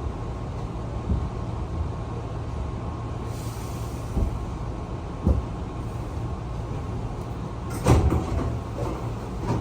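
Train standing at a station platform: a steady low hum with a few scattered knocks, a brief hiss about three and a half seconds in, and a louder clatter about eight seconds in.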